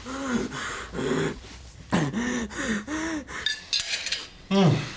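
A person's wordless vocal sounds: a string of short moans and gasps, each rising and falling in pitch, with a sharper louder one near the end.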